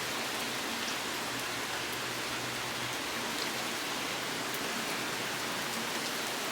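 Heavy hurricane rain pouring down in a steady, even hiss.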